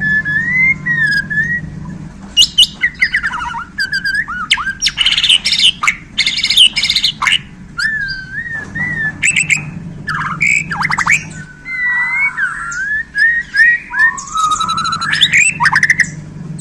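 White-rumped shama (murai batu, Borneo type) singing a long, varied song. It mixes clear whistled phrases that glide up and down with fast rattling trills and harsh chattering notes, the mixed-in 'isian' phrases that keepers prize.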